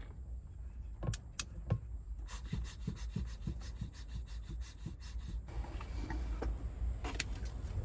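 A low, steady rumble of strong wind against the car, under a scattering of small clicks and knocks from things being handled, with a quick run of them between about two and four and a half seconds in.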